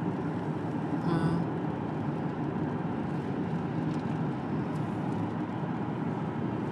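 Steady engine and road noise of a car being driven.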